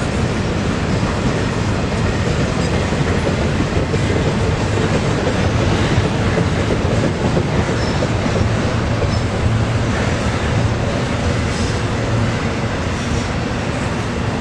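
A freight train rolling past on the track, its cars making a steady low rumble on the rails.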